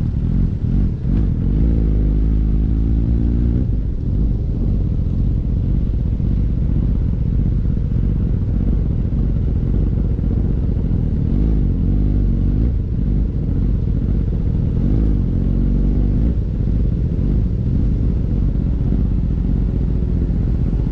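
Kawasaki ZX-10R inline-four motorcycle engine running, its pitch rising and falling a few times over a deep, steady rumble.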